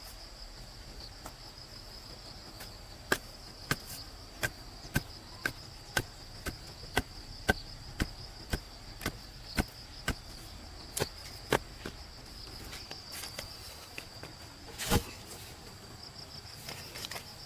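A tool striking wood over and over, about two blows a second, stopping after several seconds, with one heavier blow near the end. A steady high-pitched insect drone runs underneath.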